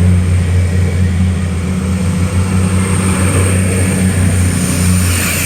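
Passenger train pulling away from the station platform: a loud, steady low hum and rumble that eases slightly near the end.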